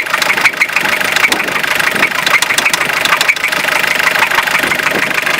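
Fiat Ducato 2.5 TDI diesel engine idling with a regular knock repeating several times a second.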